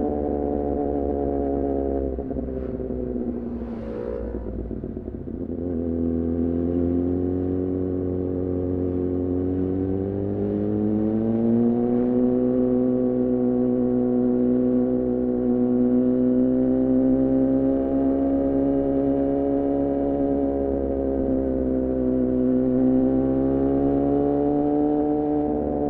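A 2014 Yamaha R6's inline-four running through an R9 titanium muffler and Leovince header while riding. The revs fall away a couple of seconds in, climb again around ten seconds in and then hold fairly steady, with a small dip and rise near the end.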